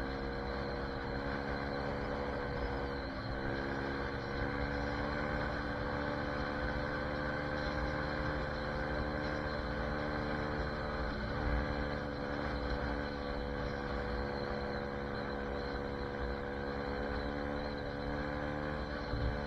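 SSR 150 dirt bike's single-cylinder four-stroke engine running at a steady pace while ridden, over a constant low rumble. The engine pitch dips briefly and picks up again about three seconds in and about eleven seconds in, as with a throttle lift or gear change.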